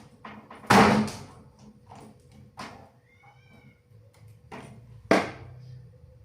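A few sharp knocks, the loudest about a second in, with further knocks near the middle and end, and a short high-pitched meow-like call about three seconds in.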